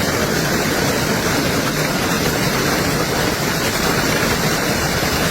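Heavy hail pelting down: a dense, steady clatter of countless stone impacts.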